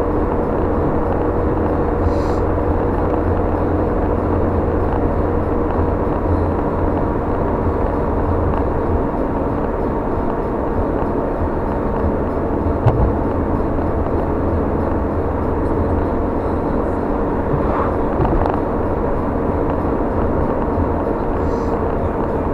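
Steady road and engine noise from inside a moving car on a wet road: a low rumble with a faint steady whine, and a single brief knock about thirteen seconds in.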